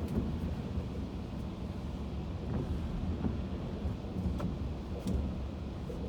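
Car interior road noise while driving: a steady low rumble of engine and tyres, with a few faint clicks.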